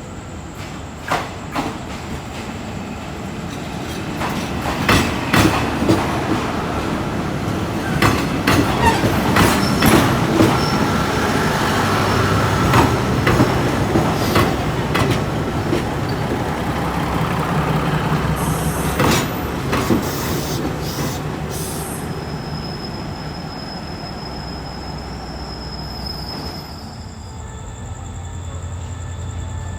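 Diesel train rolling slowly over station track, its wheels clacking irregularly over rail joints and points, with a low engine hum underneath. Later a thin high wheel squeal holds for a few seconds.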